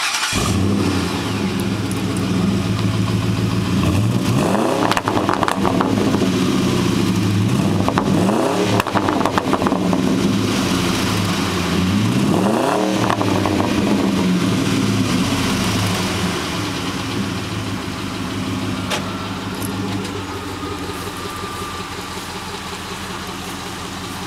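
2005 Ford F-150's V8 exhaust through Hooker Aero Chamber mufflers on a true dual system, with one set of catalytic converters removed: the engine starts, idles, is blipped three times with quick revs that rise and fall, then settles back to a steady, somewhat quieter idle.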